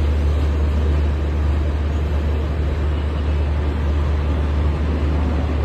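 Indian Railways locomotive approaching on the near track: a steady deep hum under a constant broad rush of train noise.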